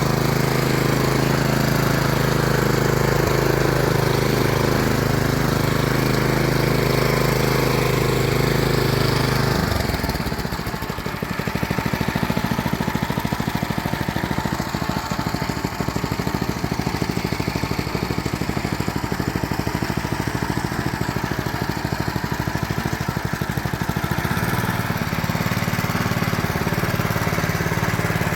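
A small engine running steadily. About ten seconds in it drops to a slower, uneven idle with a distinct chugging beat, then picks up again near the end.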